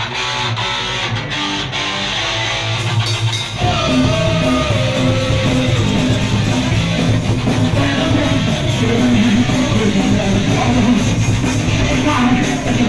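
A punk band playing live: an electric guitar plays alone at first, then the rest of the band comes in with the bass and low end about three and a half seconds in, and keeps going at full volume.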